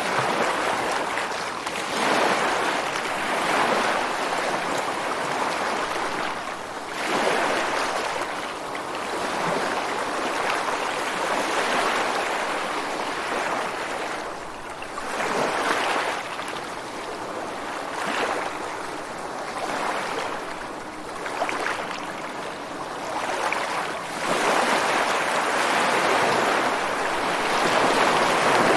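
Ocean surf breaking on a beach: a continuous wash of water that swells as each wave comes ashore and eases as it draws back. Several surges rise every few seconds, with the loudest stretch near the end.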